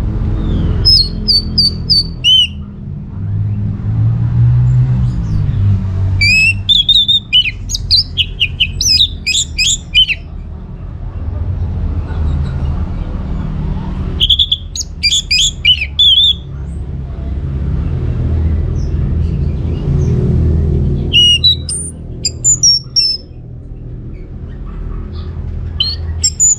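Orange-headed thrush singing in bouts of a few seconds: quick, varied, high whistled phrases with pauses between them. A steady low rumble runs underneath.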